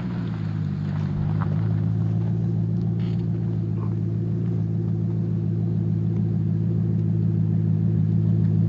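Maserati Coupé V8 idling steadily through an aftermarket Larini muffler and H-pipe exhaust, settled at idle after a rev, with a deep, even rumble.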